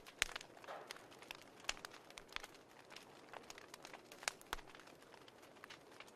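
Wood fire crackling: faint irregular snaps and pops over a low steady hiss, with the sharpest pops just after the start and about four seconds in.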